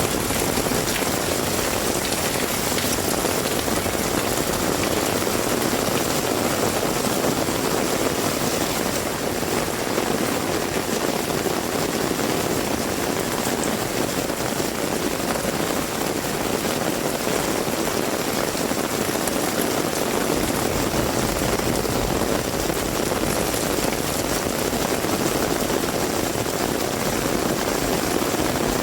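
Heavy rain falling steadily in an even hiss and patter, with a low rumble joining underneath from about two-thirds of the way through.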